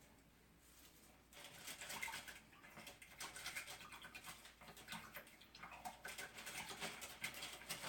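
Faint, irregular scratching and light tapping of something being handled, starting about a second in.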